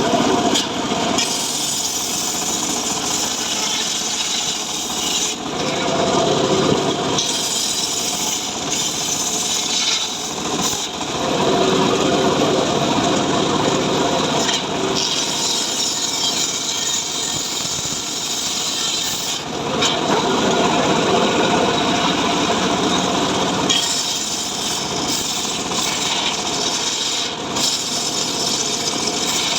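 Home-built engine-driven srekel sawmill saw cutting through mahogany wood with a continuous rasping sawing sound. The tone shifts every few seconds as the load on the blade changes.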